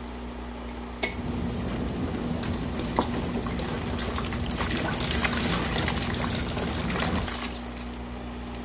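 A small RV washing machine hums steadily. About a second in there is a click, and water pours and splashes into the tub for about six seconds before stopping: the cool-down fill of cooler water into the hot wash water.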